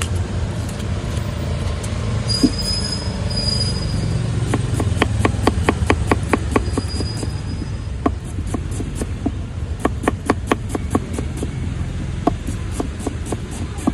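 Steady low traffic rumble, with a run of quick sharp utensil taps, a few each second, starting about four and a half seconds in as the banana stem bhel is prepared. A brief high squeal sounds twice.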